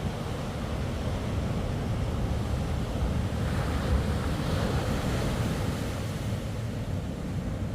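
Ocean surf breaking, with wind rumbling on the microphone; a wave swells louder about three to five seconds in.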